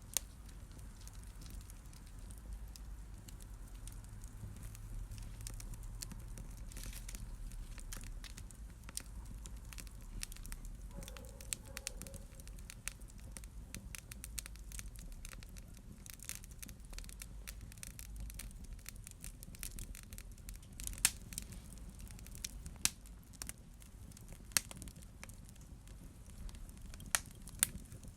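Wood fire crackling in a fireplace: a low rumble of burning under frequent sharp pops and snaps, with a handful of louder pops in the second half.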